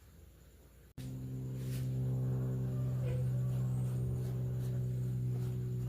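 After about a second of near silence, a steady low electrical-sounding hum starts abruptly and runs on evenly, with a few faint light ticks over it.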